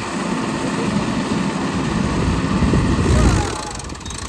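Swaraj tractor's diesel engine running, growing louder about three seconds in and then easing off.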